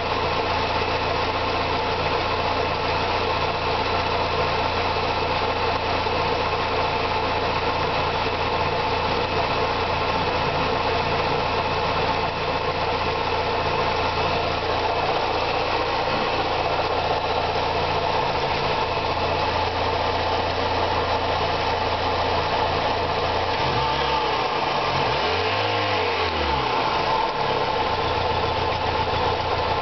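VW Golf 2.0 8-valve four-cylinder engine idling steadily, with one brief rev that rises and falls again about three-quarters of the way through. The owner says this engine doesn't run as well as it should.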